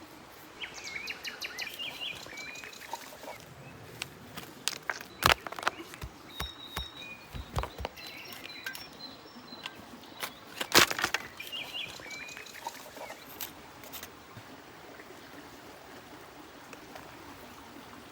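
Birds chirping and trilling in short, fast phrases, with a scatter of sharp knocks and clicks in the middle, the loudest about eleven seconds in, over a steady outdoor hiss.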